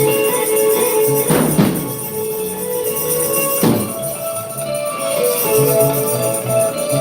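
Worship band playing an instrumental passage of held chords, with two ringing crashes about one and three and a half seconds in, and a pulsing bass line coming in near the end.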